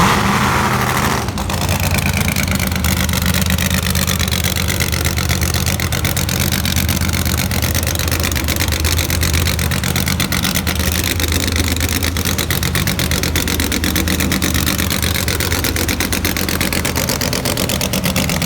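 Monster truck's engine running loud and steady, without a break.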